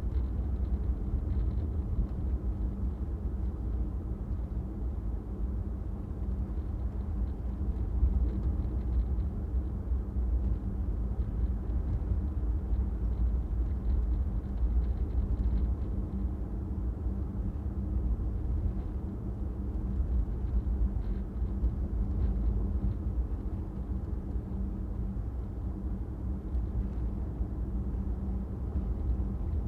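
A car driving: steady low rumble of road and engine noise, even throughout, with a faint steady hum and light ticks now and then.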